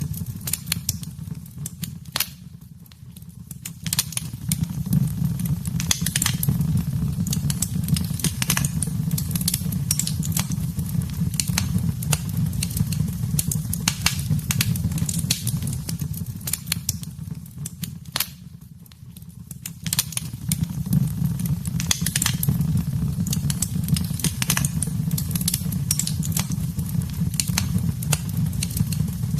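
Wood fire burning in a fireplace: constant crackling and sharp pops over a steady low rumble of the flames. The sound briefly dips quieter twice, about 3 seconds in and again near 19 seconds.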